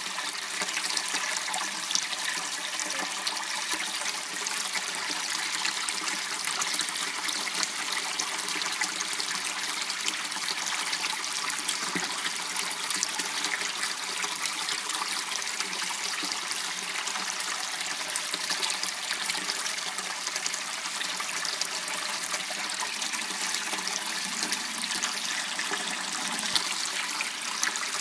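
Water running steadily in a small waterway channel, a constant trickling rush.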